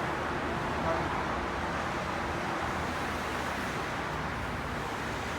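Steady rush of fast highway traffic passing below, a continuous even roar of tyres and engines.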